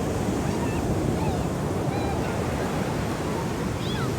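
Ocean surf washing steadily onto the beach, with wind buffeting the microphone. Short high chirps sound several times over it.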